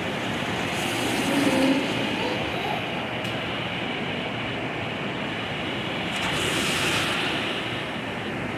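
Steady rush of heavy rain and wind in a thunderstorm, swelling louder twice for a second or so.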